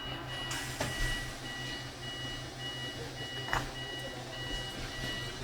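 Tram door warning beeping: a steady two-pitch electronic beep repeating somewhat under twice a second, over a low steady hum from the tram.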